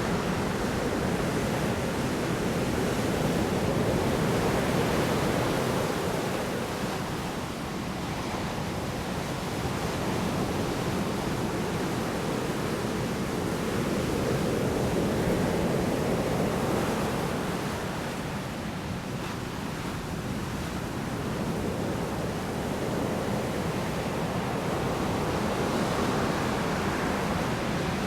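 Heavy storm surf breaking on the shore: a dense, continuous rush of water that swells and eases slowly, cresting about every ten seconds.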